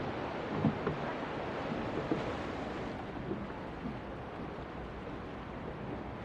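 Sea waves washing onto the shore in a steady hiss.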